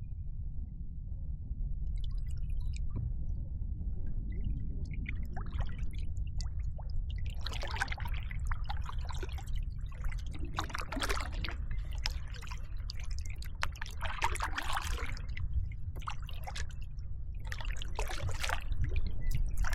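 Water splashing and dripping in repeated bursts a few seconds apart, as a kayak paddle dips and lifts, over a steady low rumble.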